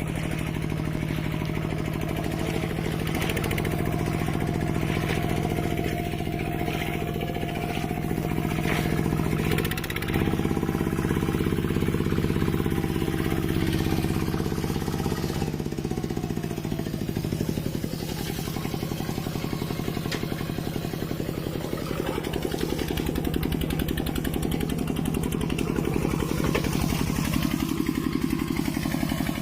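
Mini tractor's engine running steadily. Its sound dips briefly about a third of the way in, and its pitch falls a little just past the middle.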